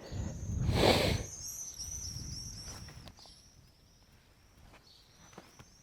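A brief loud rush of noise about a second in, then a small songbird singing a quick twittering phrase of high chirps that stops about three seconds in.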